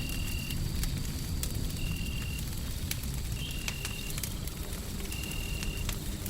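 Wood fire crackling with sharp irregular pops over a low steady rumble of fire and white noise. A high, even tone about half a second long repeats roughly every one and a half seconds, about four times.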